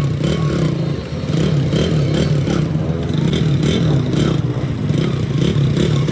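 Small motorcycle engine running steadily, with a light rhythmic clatter of ticks a few times a second.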